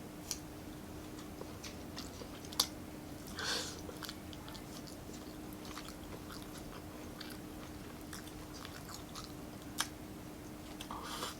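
Close-miked chewing of a mouthful of food, soft wet mouth clicks with a few sharper ones. A faint steady hum runs underneath.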